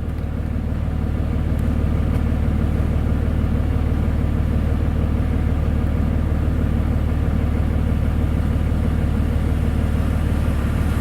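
Truck engine running with a steady low hum, heard from inside the cab while driving through floodwater on the road, a little louder after the first couple of seconds.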